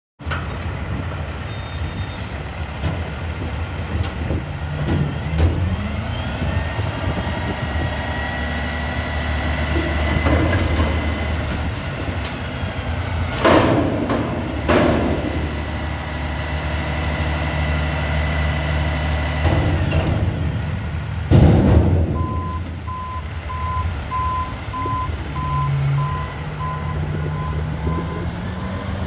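Front-loader garbage truck running steadily, with a high hydraulic whine as the forks lift and empty a 6-yard dumpster. Several loud metal bangs come from the can being dumped and set back down. Near the end the reversing alarm starts beeping steadily.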